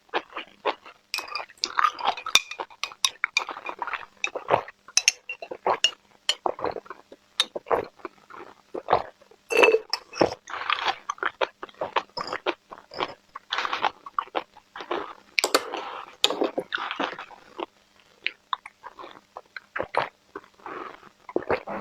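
A person chewing and crunching food close to the microphone, with many irregular crunches, bites and wet smacks.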